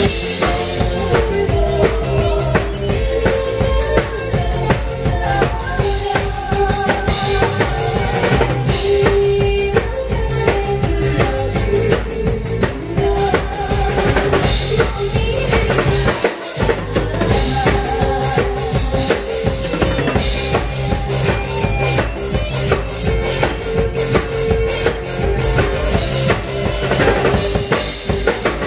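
Upbeat instrumental music driven by a busy, steady drum-kit beat of bass drum, snare and rimshots over a pitched backing track, with a brief break in the bass drum about 16 seconds in.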